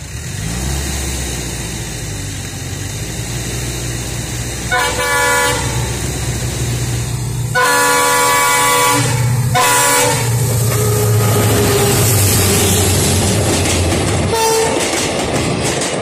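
Indian Railways passenger train approaching and passing: a low rumble grows louder as the locomotive nears, and its multi-tone horn sounds four times, a short blast, then a long blast and a quick second one, and a brief toot near the end. The coaches' wheels then clatter over the rails as they go by.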